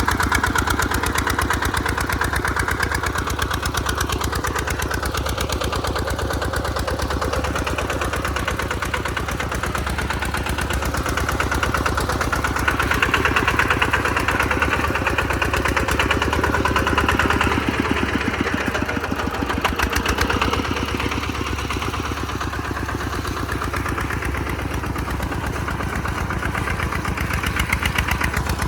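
Single-cylinder diesel engine of an RT140 Plus two-wheel walking tractor running steadily under plowing load, with its working noise rising for a few seconds around the middle.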